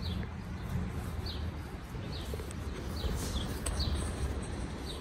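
A small bird chirping again and again: short, high chirps that slide downward, about one a second, over a steady low rumble.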